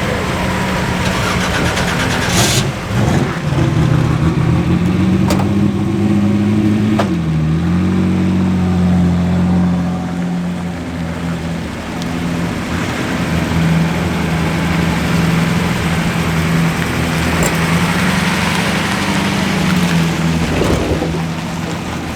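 Car engine running at low revs: the pitch climbs a few seconds in, drops back sharply about seven seconds in, then the engine runs steadily, with a few short clicks near the start.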